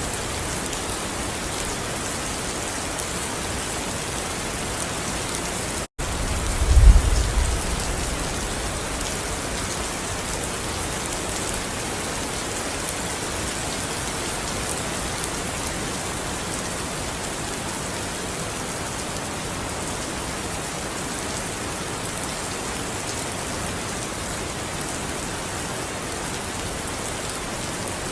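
Steady rain falling. About six seconds in the sound cuts out for an instant, then a short, low rumble of thunder follows.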